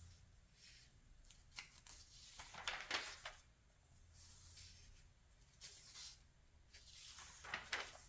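Pages of a 1981 Redbook magazine being turned by hand: two paper swishes, about three seconds in and near the end, with fainter rustles between.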